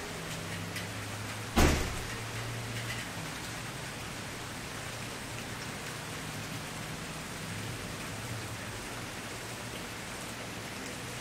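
Wood fire crackling steadily with small pops, and one loud sharp pop about a second and a half in.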